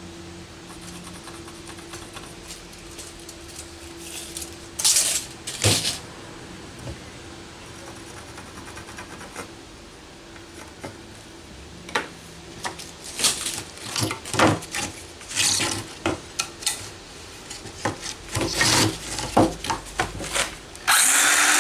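Metal tools and hardware clinking and knocking as they are handled: a scattering of short, sharp clatters that come thickest in the second half. A steady low hum runs underneath and fades about four seconds in, and a loud burst of noise starts near the end.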